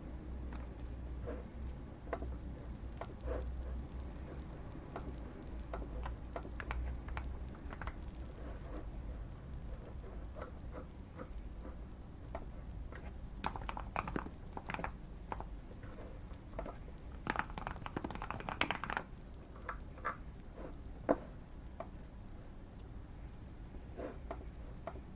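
Typing on a modded Keychron Q1 mechanical keyboard with Fierce Girl linear switches: scattered keystrokes with quicker bursts a little past the middle. Light fireplace crackle and a low steady hum sit underneath.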